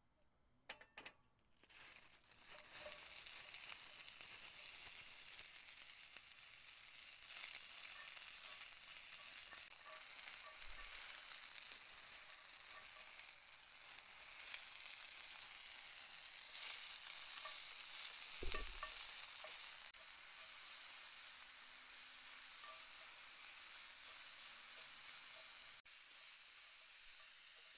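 Food frying in a hot pan: the sizzle starts suddenly about two seconds in, after a couple of light clicks, and runs on steadily with small pops. There is one thump about two-thirds of the way through.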